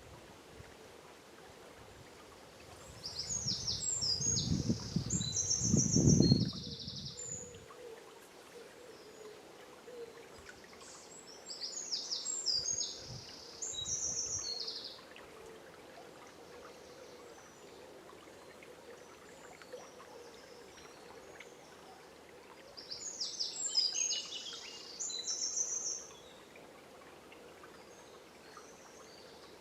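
A songbird sings three short phrases of quick high notes, several seconds apart, over a faint steady murmur of river water. A low rumble swells under the first phrase and fades away.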